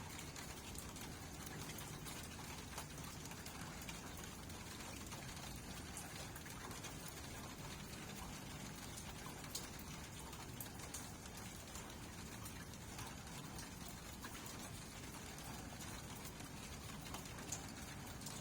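Steady rain falling, with scattered individual drops ticking and pattering through the even hiss.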